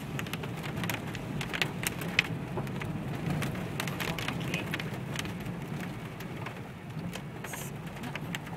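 Inside a car driving a rough, bumpy forest track: a steady low drone of engine and tyres, with many irregular sharp clicks and knocks from the jolting over the track.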